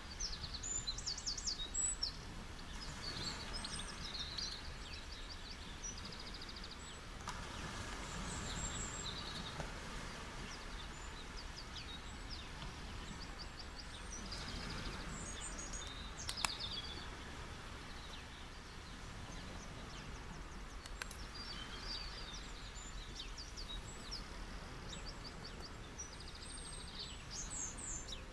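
Steady wash of ocean surf on a beach, swelling gently a few times, with small birds chirping and trilling now and then. One sharp tick about halfway through.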